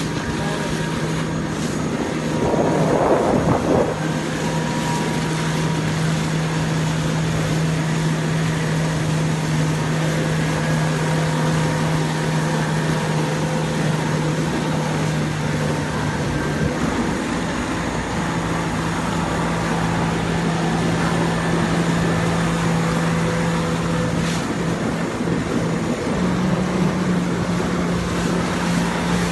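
Jet ski engine running steadily at speed, its pitch stepping slightly a couple of times, with wind buffeting the microphone and a brief louder rush of water or wind about three seconds in.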